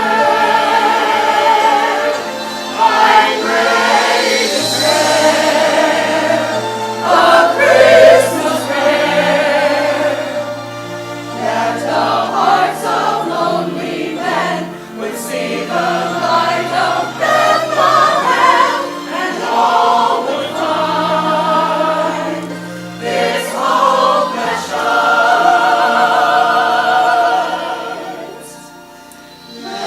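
Choir singing a sacred piece over sustained low accompaniment, with a short drop in level near the end between phrases.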